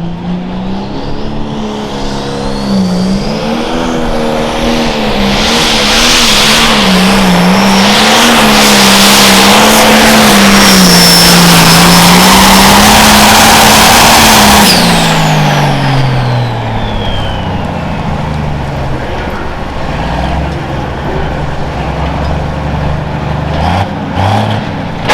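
Turbocharged diesel engine of a 4.1 Limited Pro Stock pulling tractor at full throttle under load, its pitch wavering up and down, loudest in the middle. About fifteen seconds in the engine drops off and winds down with a falling turbo whistle, then runs quieter, with a few sharp pops near the end.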